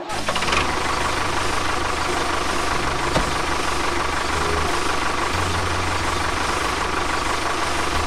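A motor running steadily for the model tractor, with a low rumble that grows stronger about five seconds in.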